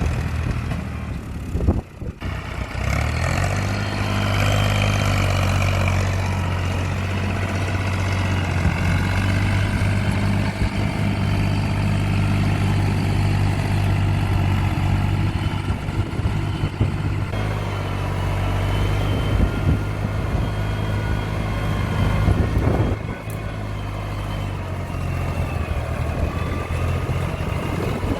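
Fiat 480 tractor's diesel engine running steadily under load, with a brief drop about two seconds in and running a little quieter near the end.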